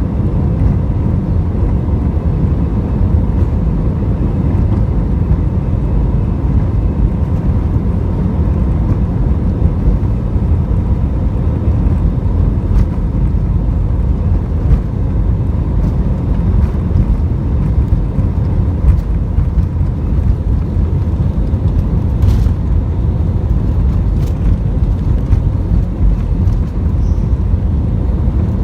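Steady low roar of an Airbus A320's engines and rushing air, heard inside the cabin during the climb just after takeoff.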